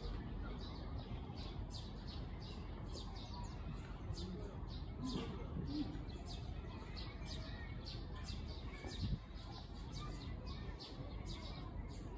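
Small birds chirping, short high chirps repeated irregularly over a steady low background noise.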